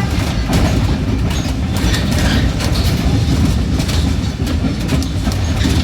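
Train running on rails: a steady loud rumble with the clatter of wheels over the track.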